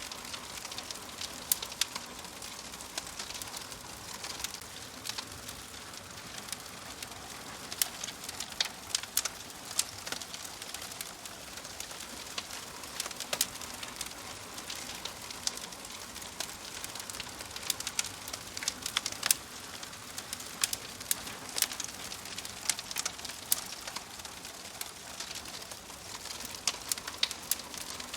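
Wood fire burning in a wood-burning stove: a steady soft hiss with frequent irregular crackles and sharp pops.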